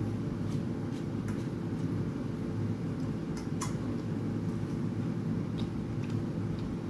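Steady low machine hum, with a few brief sharp clicks and mouth sounds of someone eating rice and curry.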